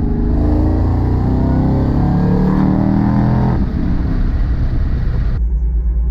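Car engine accelerating hard, its pitch rising for about three seconds and then falling away as the throttle lifts, leaving a low engine rumble; near the end the sound changes abruptly to a duller rumble.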